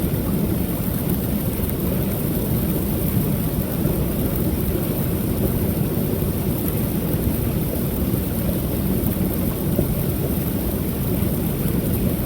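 Creek waterfall pouring steadily, a continuous deep rushing rumble of falling water with no breaks.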